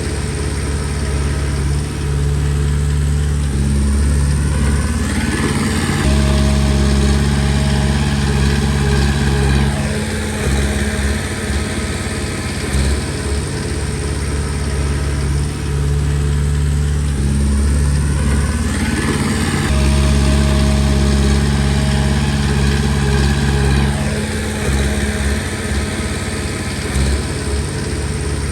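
Komatsu D20P bulldozer's diesel engine running steadily, its pitch rising and then falling twice as the throttle and load change through two pushes of the blade.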